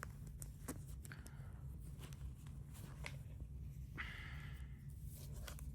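Faint scattered clicks and rustling of a wristwatch and its packaging being handled as it is taken out of the box, with a longer soft rustle about four seconds in.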